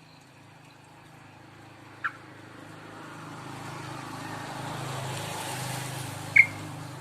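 A young yellow-vented bulbul, a two-month-old just starting to call, gives two short chirps: one about two seconds in and a louder one near the end. Under them, a passing vehicle swells and fades.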